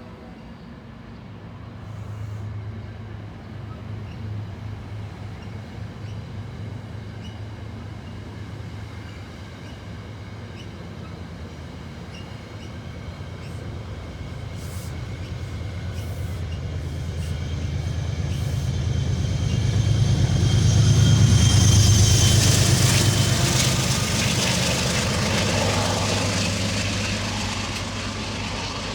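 A train passing, with a steady low hum that grows louder to a peak about two-thirds of the way through. At the peak a rushing, hissing wheel-and-rail noise joins the hum, then eases off.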